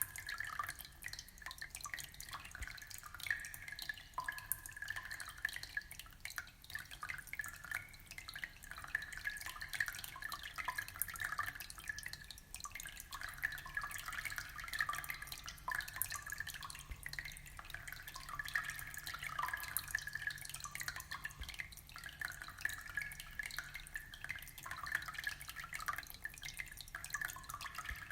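Aquarium water trickling and bubbling: a steady stream of small drips and plinks.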